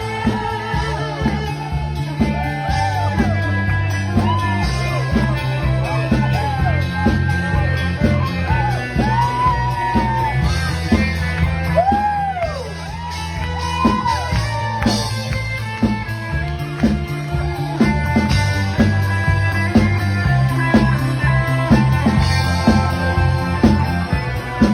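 Live rock band playing, with singing over guitar and a stepping bass line.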